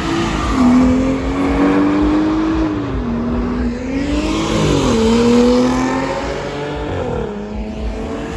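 A BMW's engine held at high revs, its pitch creeping up and then dropping sharply three times as the revs fall and pick up again.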